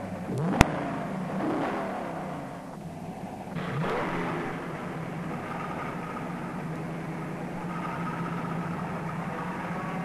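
1966 Plymouth Satellite's 426 Hemi V8 accelerating hard on a drag run. The revs climb and drop again as it shifts up through the four-speed in the first few seconds, then settle into a steady high drone. There is a sharp click about half a second in.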